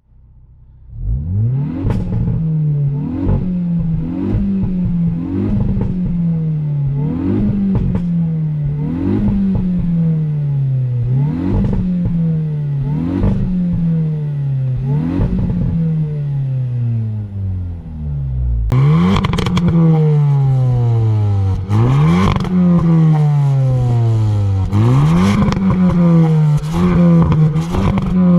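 Hyundai i20 N's 1.6-litre turbocharged four-cylinder engine being revved in a series of about ten quick blips, the pitch shooting up and falling back each time. About two-thirds through the revs get louder and longer, with rapid pops and crackles from the exhaust as the revs fall.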